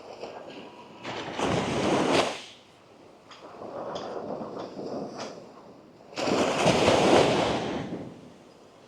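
Small waves breaking on a sandy shore: two sudden washes of surf, each lasting a second or two and about five seconds apart, over a softer background wash.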